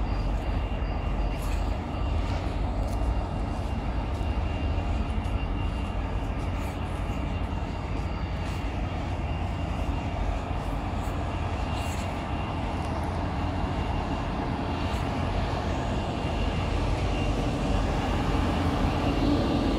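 Steady low drone of a double-deck passenger train at the platform, with a faint constant high whine over it.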